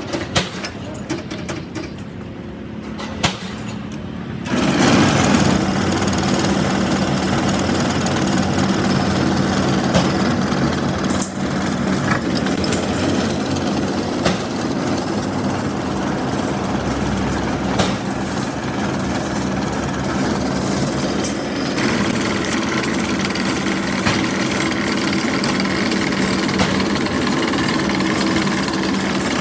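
A few knocks, then a machine's motor starts about four seconds in and runs steadily with a low hum.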